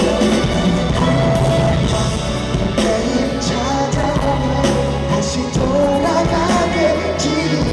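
Pop song performed live in concert: singing over a band, with sustained bass notes and a steady drum beat.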